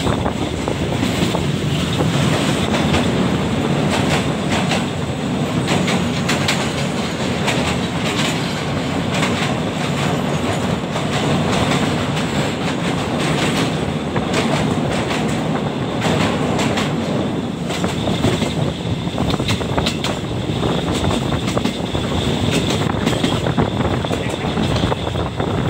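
Passenger train carriage running at speed, heard from an open window: a steady rumble of wheels on the rails, broken by frequent sharp clacks over the rail joints.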